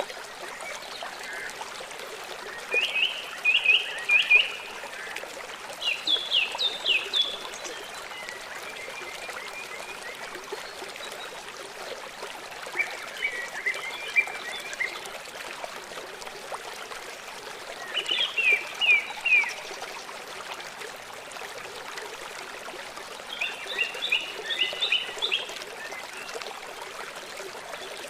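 Birdsong: short phrases of quick repeated chirps about every few seconds, over a steady trickle of running water.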